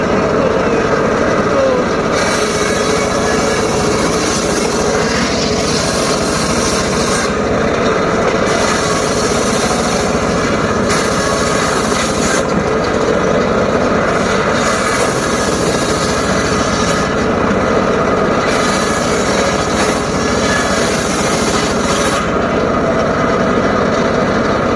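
Homemade circular saw running steadily, its blade cutting through short teak wood in repeated passes a few seconds each, the hissing cutting noise coming and going over the steady motor.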